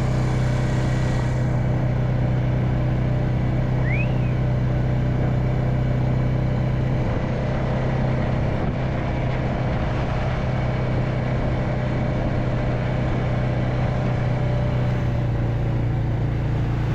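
Vehicle engine running at a steady, unchanging speed while driving, with a brief high rising chirp about four seconds in.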